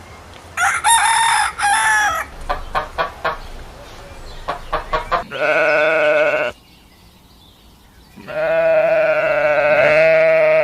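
Chickens: short clucking calls, then a rooster crowing twice, the second crow long and held.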